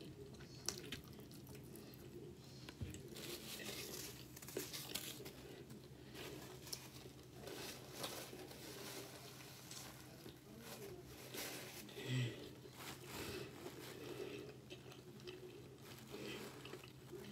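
Close-miked chewing and crunching of breaded fried onion rings, with scattered crisp bites and mouth sounds over a faint steady hum. A paper napkin crinkles as it is unfolded, and a brief low thump about twelve seconds in is the loudest sound.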